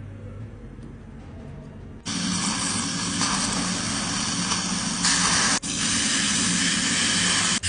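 A loud, steady hiss like a spray of air or water starts about two seconds in. It breaks off for an instant and then carries on.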